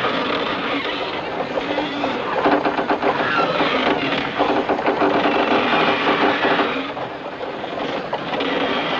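Lifeboat falls (ropes) running through the davit blocks as a lifeboat is lowered: rapid clattering with a steady squeal, easing off about seven seconds in.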